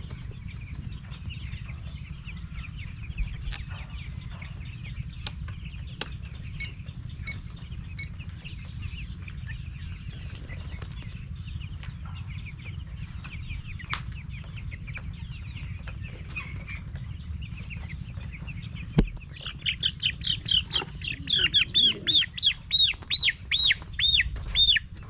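Fourteen-day-old broiler chicks peeping, with wings flapping and a few sharp knocks as birds are handled for weighing. From about 19 seconds in, a chick gives loud, rapid, regular peeps, several a second.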